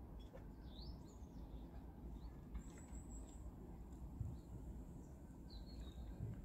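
Faint wild bird calls: a few short chirps and a thin high whistle held for about half a second, over a low steady rumble.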